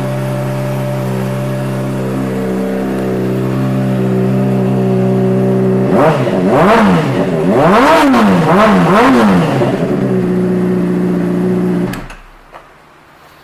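Honda CBR600RR inline-four with an aftermarket exhaust idling steadily, then revved with several quick throttle blips that rise and fall in pitch. It settles back to idle and is switched off about 12 seconds in.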